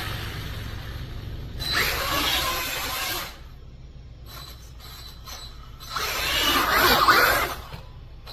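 Hyper Go H14BM V3 1/14 brushless RC truck running in two bursts of about a second and a half each, its motor and gear drive whirring with a rattling, ratchety sound.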